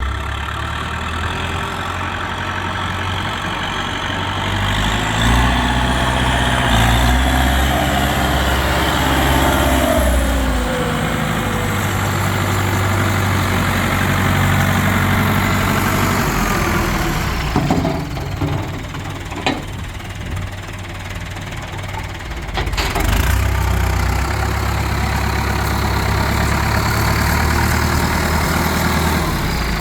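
Massey Ferguson 698 Turbo tractor's diesel engine running. Its pitch rises about five seconds in, then drops back near the ten-second mark. It quietens for a few seconds in the middle, with two sharp clicks, then runs steadily again.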